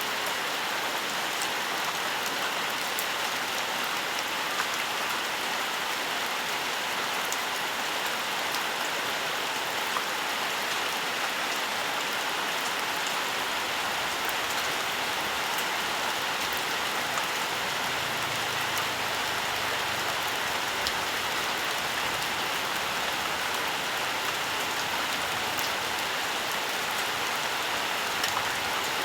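Steady, even rainfall, with faint scattered drop ticks.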